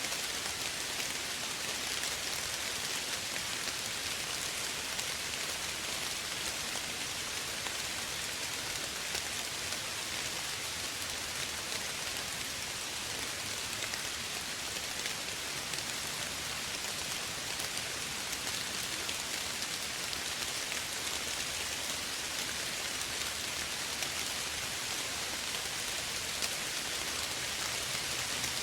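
Steady soft rain: an even hiss of many small drops falling, with no distinct drips or thunder.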